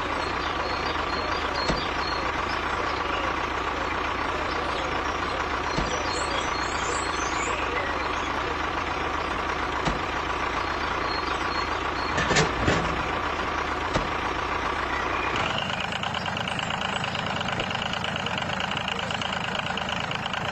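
Mini DIY model tractor's small motor running steadily with a thin whine, with a few light clicks. About fifteen seconds in, the tone changes: the low rumble drops away and a higher buzz comes in.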